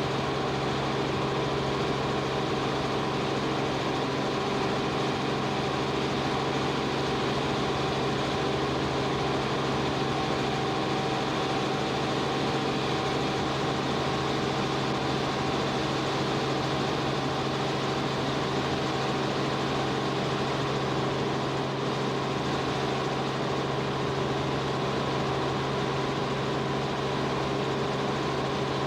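Steady engine drone heard from inside an aircraft filming from the air, with a constant low hum and several fainter steady tones above it, unchanging throughout.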